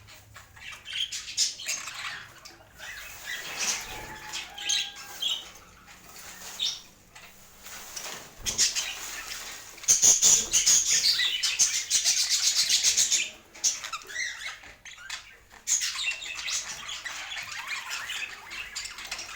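Pet budgerigars chattering and chirping in short, high warbling notes. About halfway through comes a louder stretch of a few seconds made of rapid, evenly repeated strokes.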